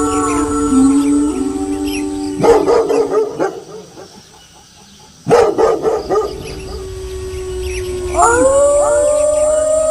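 Several wolves howling together in overlapping long calls. The howling breaks off into bursts of barking about two and a half seconds in and again about five seconds in, with a brief lull between them. A new chorus of rising howls starts near the end.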